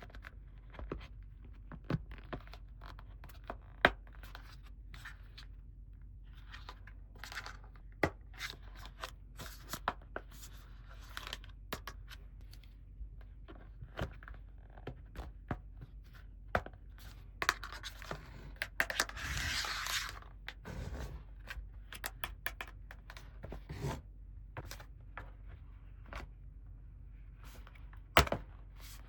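Unboxing of small plastic toys: scattered clicks and taps of plastic pieces being handled and set down, with a couple of seconds of packaging tearing and crinkling about two-thirds of the way through.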